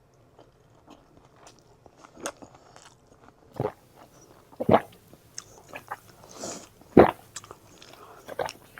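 Close-miked eating: chewing and crunching with sharp mouth clicks and smacks at irregular intervals, the two loudest a little under five seconds in and at seven seconds.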